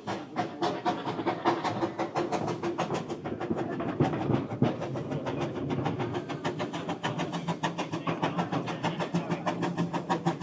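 A railway train running, with a fast, even beat of about six knocks a second over a steady low drone.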